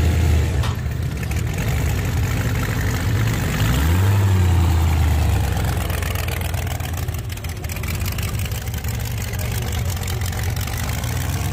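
A car engine idling close by with a steady low rumble, briefly rising in revs about four seconds in and settling back.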